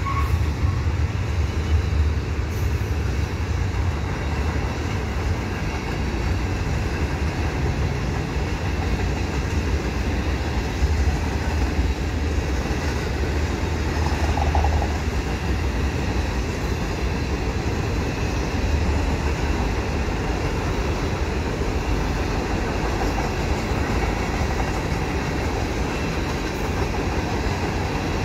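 Freight cars of a long mixed freight train rolling past on steel rails: a steady low rumble of wheels on track.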